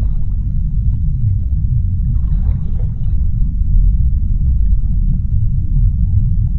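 Deep, steady underwater rumble of a sea-floor ambience, with a faint, brief higher sound a little over two seconds in.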